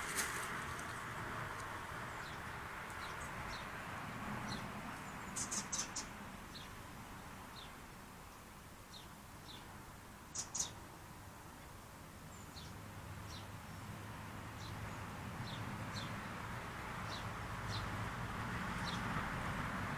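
A small bird giving short, high, falling chirps every second or so, with a few sharp clicks in between, over steady background noise.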